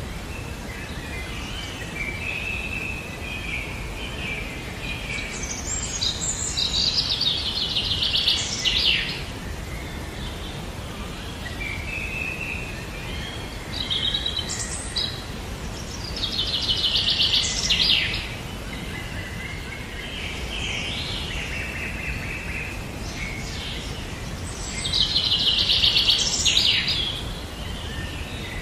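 A songbird singing three times, each song about two to three seconds long and ending in a fast, high trill, over a steady low outdoor rumble.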